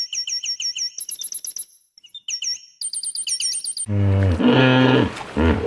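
A bird chirping in rapid, regular runs of high-pitched notes, about five or six a second, with short pauses between runs. About two-thirds of the way through, a much louder, low-pitched animal call takes over.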